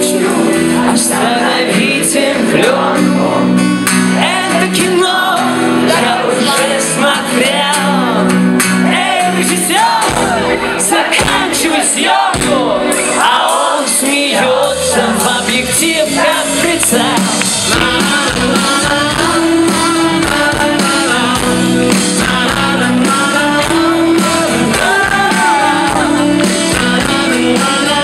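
Acoustic rock band playing live, with a lead vocal singing over sustained chords.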